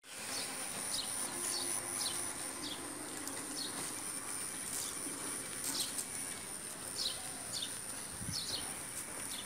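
A bird calling with short, high, falling chirps, one or two a second and unevenly spaced, over a steady high-pitched insect drone.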